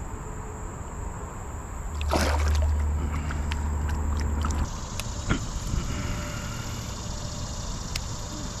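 Water splashing and sloshing around a small fishing boat, with scattered knocks and clicks. A heavy low rumble comes in about two seconds in with a splash and stops sharply a little before the halfway point.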